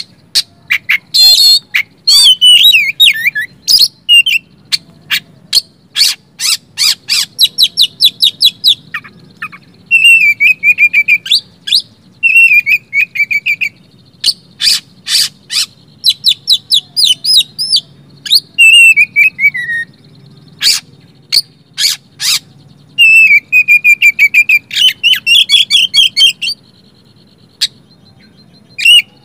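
Oriental magpie-robin (kacer) singing a loud, varied song. It mixes runs of sharp repeated chips with whistled phrases and falling slurred notes, broken by short pauses.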